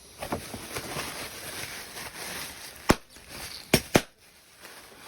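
Soft rustling handling noise, then three sharp clicks or knocks, the last two close together.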